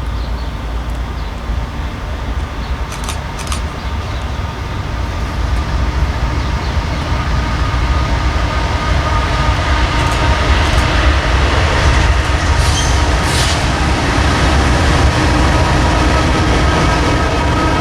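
A train going by: a steady low rumble that grows louder, with a few sharp clicks. From about ten seconds in, steady high-pitched tones join it.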